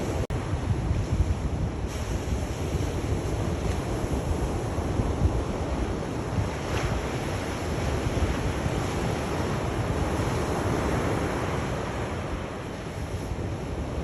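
Sea waves washing onto a shore, a continuous surging rush with wind buffeting the microphone and a heavy low rumble. The sound drops out for a split second just after the start.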